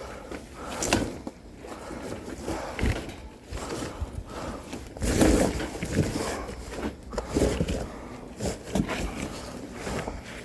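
Split oak firewood logs knocking and clattering against one another as they are handled and stacked, in irregular knocks with the loudest cluster about five seconds in.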